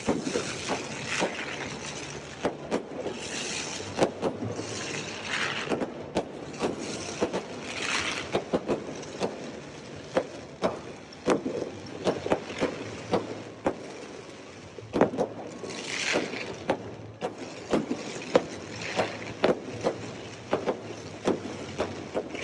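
Fireworks going off: an irregular string of sharp bangs, sometimes several a second, with spells of crackling hiss from bursting shells.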